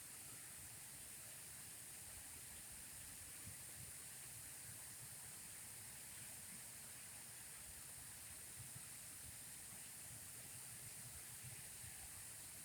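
Faint, steady hiss of running water with a soft low rumble underneath.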